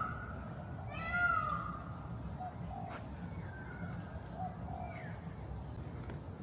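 Mewing, cat-like animal calls: one loud arched call about a second in, then several shorter, fainter calls, over a steady high-pitched insect-like drone.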